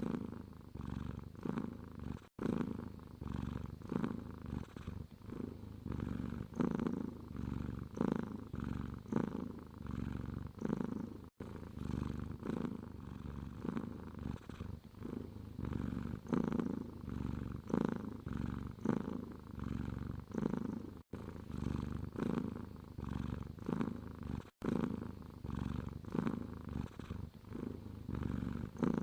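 Domestic cat purring, the low rumble swelling and fading with each breath in and out, about once a second. The purr is broken by a few momentary silent gaps.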